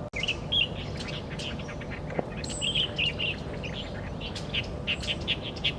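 Wild birds chirping: many short, high chirps in quick runs, repeated throughout, over a steady low outdoor rumble.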